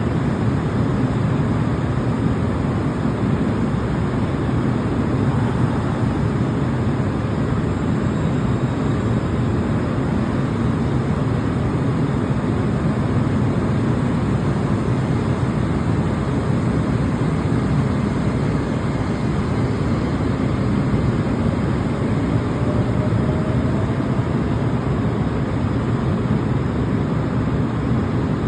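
Electric passenger train running, a steady low rumble, with a faint rising whine about two-thirds of the way through as it picks up speed.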